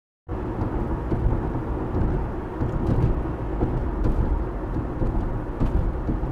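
Steady low rumble of road and engine noise in a moving car, cutting in abruptly about a quarter second in.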